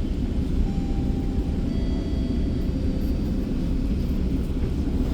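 Steady low rumble inside a GO Transit commuter train coach standing at a station platform, with faint thin high tones sounding for a couple of seconds in the middle.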